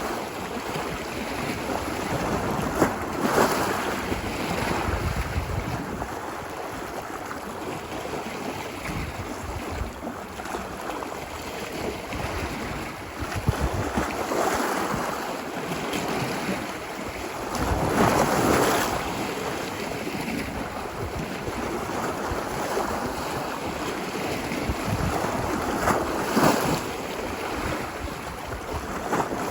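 Ocean waves washing onto a beach: a steady surf wash that swells louder about four times as waves break, with wind rumbling on the microphone.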